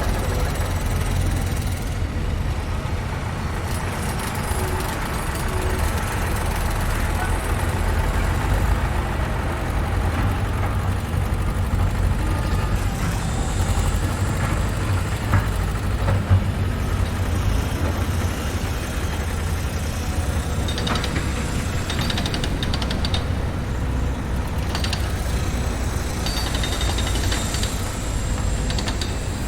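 Construction-site heavy machinery: a diesel engine running with a steady low rumble, joined in the second half by a run of short clanks and rattles.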